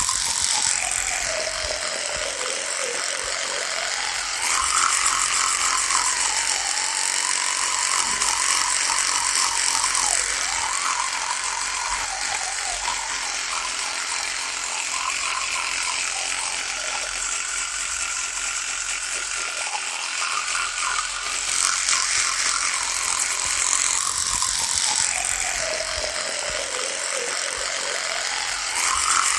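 Electric toothbrush motor running continuously with a rattly buzz. Its pitch sags a few times, most deeply near the start and near the end, then climbs back.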